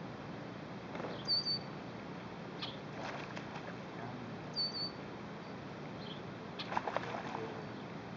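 A bird's short, high chirp with a quick upward flick, heard twice about three seconds apart, over a steady background hiss. A few faint clicks come around three seconds in and again near seven seconds in.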